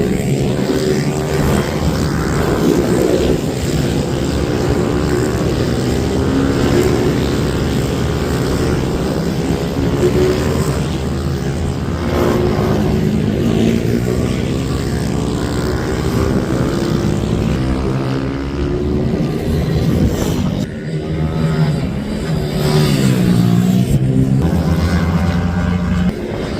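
Several racing minibike engines revving hard, their high notes overlapping and rising and falling as the bikes accelerate, shift and brake.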